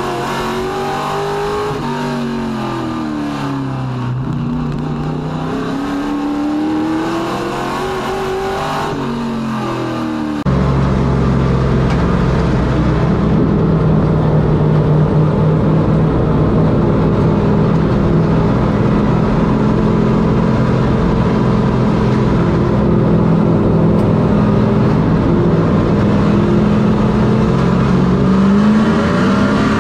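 Race truck engine at racing speed, its pitch rising and falling as the throttle opens and lifts. About ten seconds in, the sound cuts abruptly to a louder, steadier engine note with more low rumble, which climbs in pitch again near the end.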